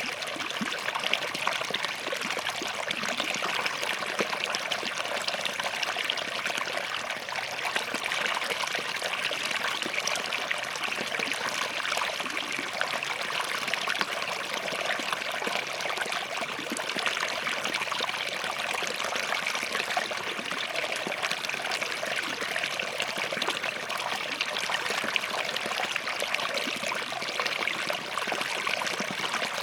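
A small forest stream flowing and trickling between rocks, a steady bubbling rush.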